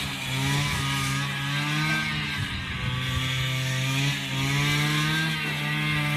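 A small engine running steadily, its pitch drifting up and down as it revs.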